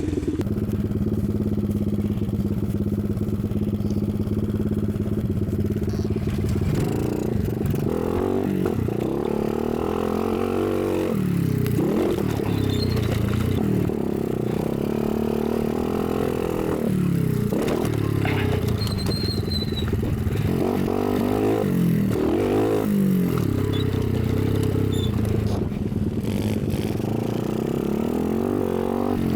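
Dirt bike engine running steadily, then revving up and falling back over and over as the bike is ridden hard.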